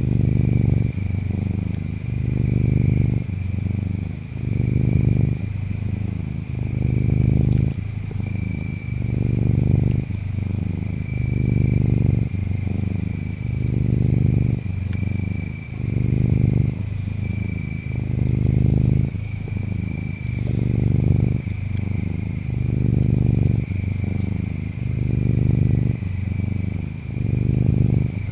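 Domestic cat purring, the rumble swelling and easing about every two seconds with each breath. Behind it, a steady high insect drone with shrill trills recurring every few seconds.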